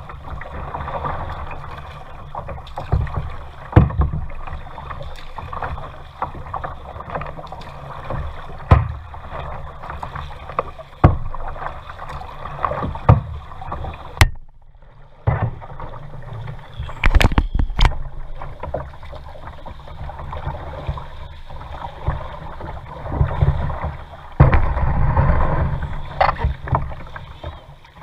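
Kayak out on the water: a steady wash of water against the hull and paddle, with irregular sharp knocks. The sound briefly drops away about halfway through.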